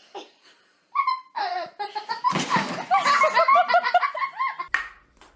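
A person laughing hard: rapid, repeated bursts of laughter. A short rushing noise comes just before the laughter builds, about two seconds in.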